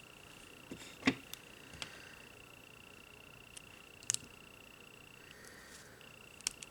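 A few small clicks and taps of nail-stamping tools and polish bottles being handled on a table, the sharpest about a second in and another about four seconds in. Under them a faint steady high-pitched whine that stops for a moment about five seconds in.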